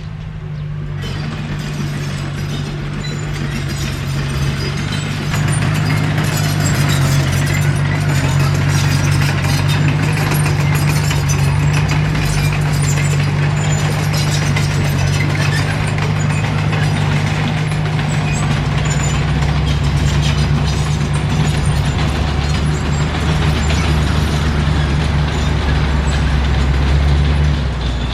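Komatsu D21P crawler bulldozer's diesel engine running steadily under load, growing louder about five seconds in, with its note deepening in the last third.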